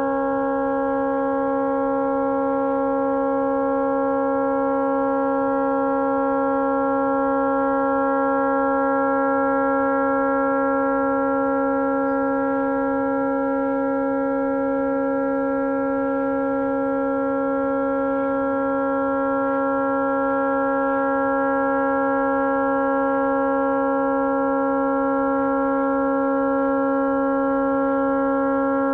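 A tugboat's horn stuck on, sounding without a break as one steady, unchanging chord of several tones: the horn has malfunctioned and can't be shut off.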